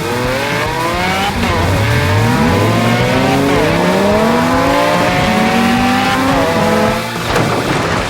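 Cartoon vehicle engine sound effects revving, several engine notes overlapping and sliding up and down in pitch.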